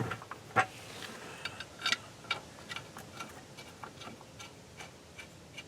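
Irregular light metallic clicks and taps as a bolt is fitted by hand into the brake backing plate on a rear axle, with a sharper click about half a second in and a small cluster near two seconds.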